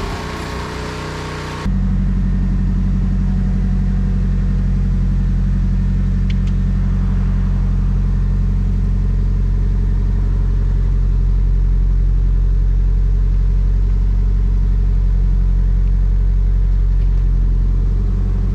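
Nissan SR20DET turbocharged four-cylinder engine idling steadily at an unchanging pitch. It cuts in abruptly about two seconds in.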